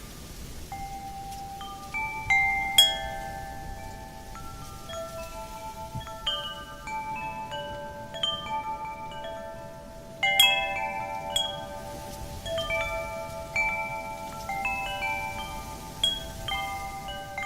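Wind chimes struck irregularly by the wind, their metal tubes ringing on and overlapping, with a loud cluster of strikes about a third of the way in and another just past halfway. A faint wind noise lies beneath.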